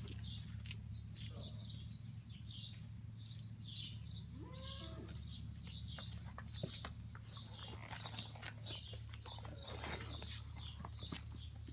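A small bird chirping over and over in short high notes, with one brief gliding animal call about halfway through. Light clinks and knocks of saddle and tack being handled come and go, over a steady low hum.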